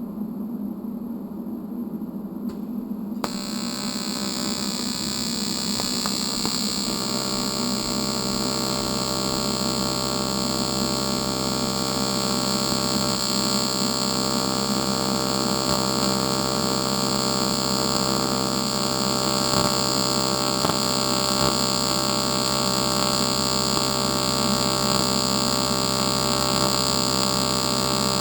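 TIG welding arc from an Eastwood TIG 200 AC/DC welder, struck about three seconds in and then buzzing steadily, growing a little louder over the next few seconds as more pedal is given.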